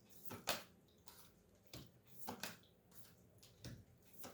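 Tarot cards being handled: several faint, short taps and soft slides at irregular moments as cards are drawn and laid down.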